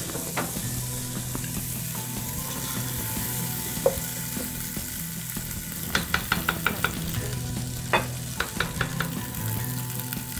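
Tomatoes, onions and ginger-garlic paste sizzling in oil in a non-stick pot while a wooden spoon stirs them. The spoon knocks against the pot in quick runs of clicks about six and eight seconds in.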